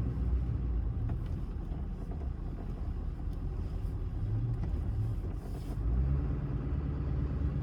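Vehicle engine and road noise while driving, a steady low rumble that eases off in the middle and picks up again about six seconds in.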